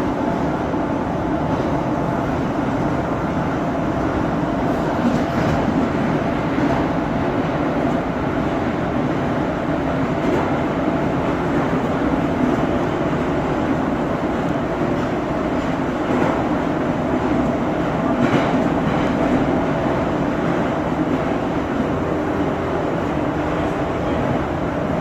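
Moscow Metro 81-717/714 'Nomernoy' subway car running at speed between stations, heard from inside: a steady rolling rumble with a steady hum and a few faint knocks from the wheels.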